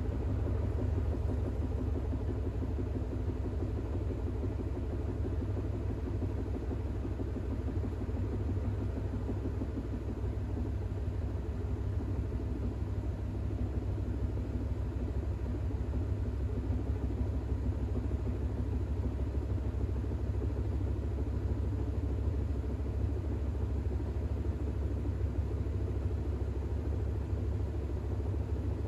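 Bosch WAX32GH1 front-loading washing machine spinning steadily with a low rumble, during an intermediate spin of towels with an unbalanced load.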